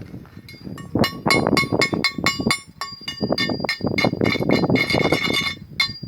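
Rapid metal-on-metal hammer strikes on steel undercarriage parts, each blow ringing briefly. The strikes are sparse at first and come in a dense, uneven run from about a second in.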